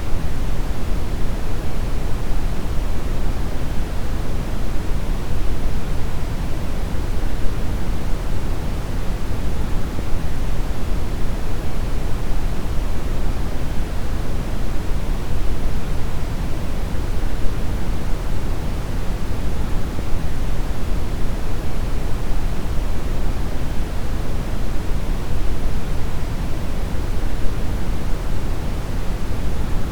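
Deep brown noise: a steady, unchanging rumbling hiss, strongest in the low end and much weaker in the highs.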